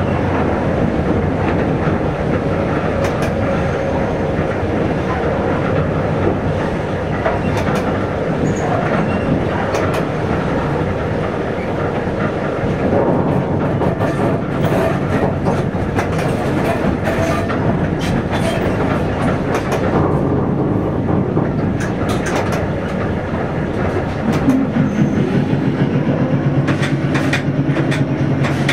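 Train running along the track, heard from the driver's cab: a steady rumble of wheels on rails with repeated clicks over the rail joints. About 24 seconds in, an engine hum comes up and its note slowly rises.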